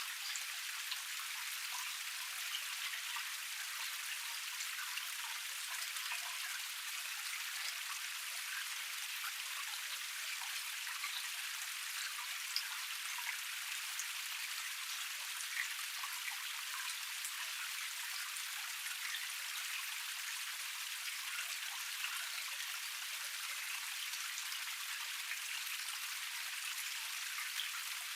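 Small forest waterfall cascade: water spilling steadily over a rock tier, an even rushing hiss flecked with many small splashes and drips.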